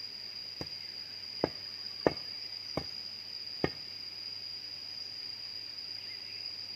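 Five sharp knocks, unevenly spaced over the first four seconds, over a steady high-pitched insect drone.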